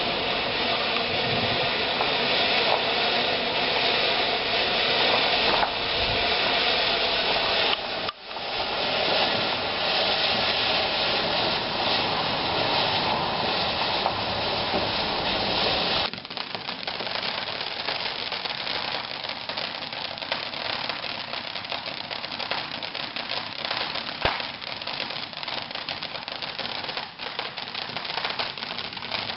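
Ground firework in a back garden spraying sparks with a steady, loud hiss that dips briefly about eight seconds in. About halfway through the hiss gives way to a dense, fast crackling of many tiny pops.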